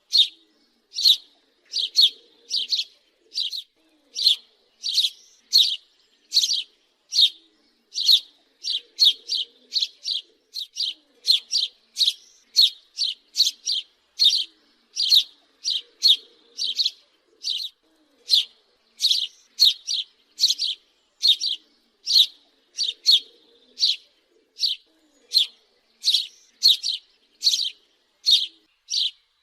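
House sparrow chirping: a long, steady series of short, sharp cheeps, somewhat under two a second.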